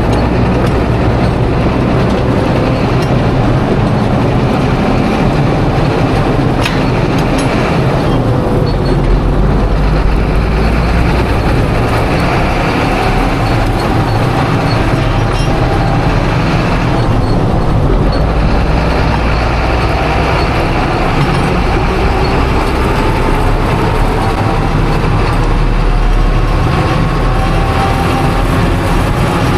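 Large diesel farm machine running steadily, its engine pitch drifting slightly up and down.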